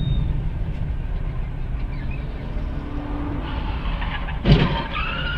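Steady rumble of a car on the move, heard from inside, with one sudden loud thump about four and a half seconds in.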